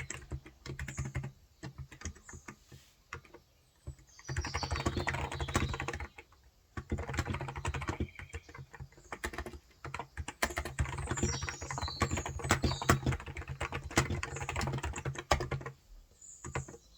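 Typing on a COX Endeavour electrostatic capacitive (Topre-style) tenkeyless keyboard with 35 g switches, in fast runs of keystrokes broken by short pauses of a second or two.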